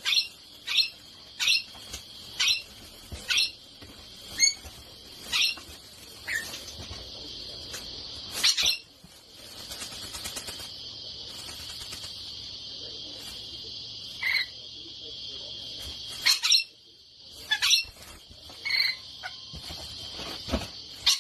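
A pet bird giving short, sharp, high calls over and over, about one a second, with a gap of several seconds in the middle. A steady high chirring runs underneath through much of it.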